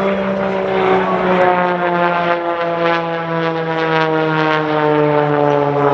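Edge 540 aerobatic plane's piston engine and propeller running hard, its note falling slowly and steadily in pitch.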